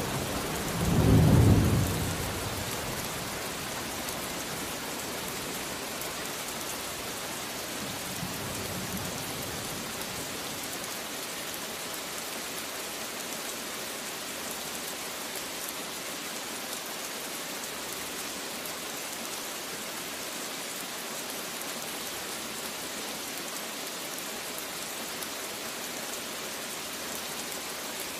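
Steady rain falling, with a loud rumble of thunder about a second in that dies away within a couple of seconds, and a faint distant rumble near the middle; the rest is only the even hiss of the rain.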